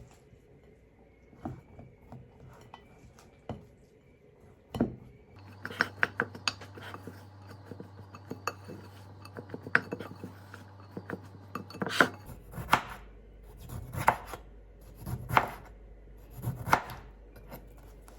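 Kitchen utensils and dishes clinking and knocking: a few scattered clicks, then a quick run of small clinks, then several louder knocks about a second and a half apart near the end.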